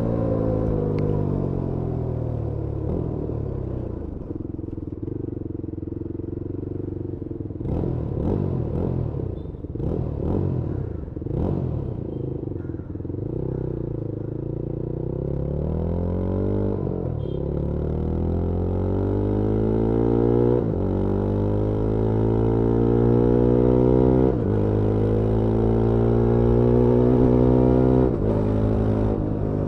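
Yezdi Scrambler 350's 334cc single-cylinder engine heard from the rider's seat. It winds down off the throttle, then runs low and uneven at low speed for a while. It then pulls up through the gears with a rising pitch and a short dip at each of about three upshifts.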